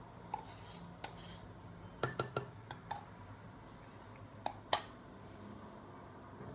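Light clicks and knocks of small objects being handled and set down, a quick cluster about two seconds in and one sharper knock near the end, over a low steady hum.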